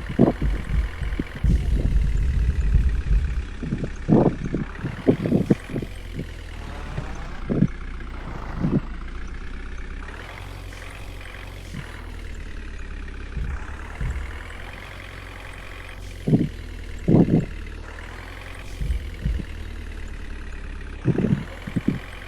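Water tanker vehicle's engine running, its pitch rising and falling a few times, with a heavy low rumble in the first few seconds. Scattered knocks and thumps come through, bunched near the start and again near the end.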